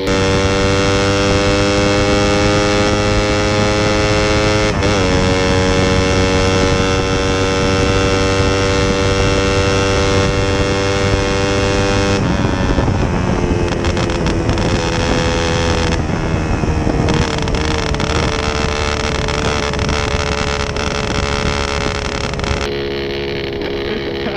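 Suzuki Satria FU 150 single-cylinder engine at full throttle through a hollowed-out stock muffler, very loud. The note climbs, dips at a gear change about five seconds in, climbs again, then drops at about twelve seconds and holds steady, easing slightly toward the end.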